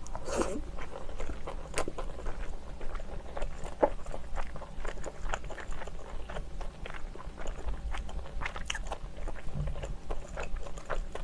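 Close-miked chewing of a mouthful of steamed shellfish meat: a steady run of small mouth clicks and squishes, with a louder bite right at the start.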